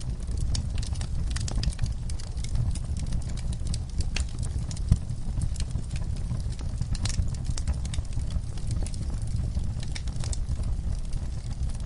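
Wood fire burning in a fireplace, crackling with many irregular sharp pops over a low steady rumble of flames, one pop louder than the rest about five seconds in.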